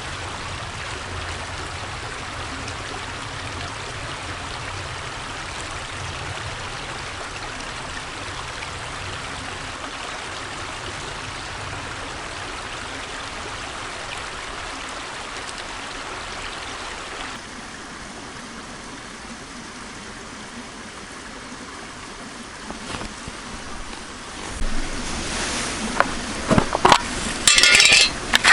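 Steady rush of running water. About seventeen seconds in it drops abruptly to a quieter hiss, and near the end comes a run of sharp clicks and knocks.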